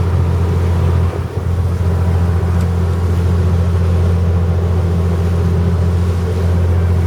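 Fishing boat's engine running steadily under way, a loud low drone, with a brief dip about a second in.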